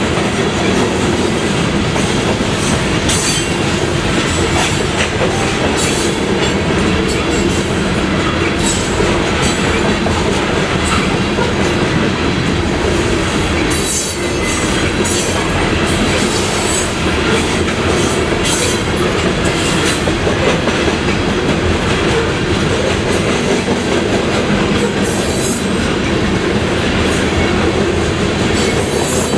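Freight train cars rolling past at close range: a steady, loud rumble of steel wheels on rail, with scattered clicks and brief wheel squeals.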